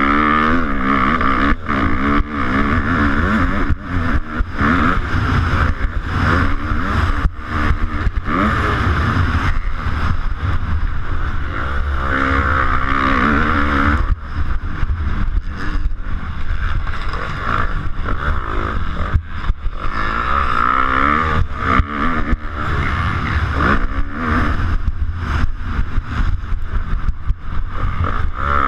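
250cc motocross bike engine heard from an onboard camera, revving up and falling back over and over as the rider works the throttle and gears around the track. There are many brief breaks and knocks in the sound.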